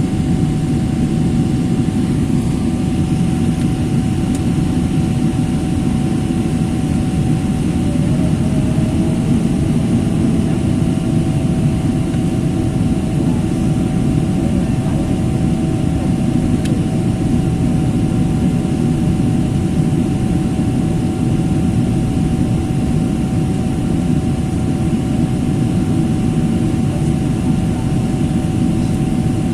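Jet airliner cabin noise: the steady, even roar of the engines and airflow heard from inside the passenger cabin, with a constant hum over it and a fainter second hum between about 8 and 17 seconds in.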